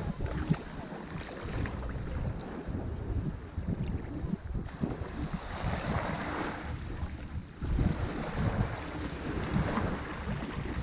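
Ocean waves breaking and washing on a shore, with a swell of surf hiss about halfway through. Wind buffets the microphone with gusty low rumbles throughout.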